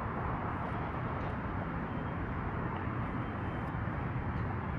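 Steady outdoor background rumble and hiss with a few faint ticks.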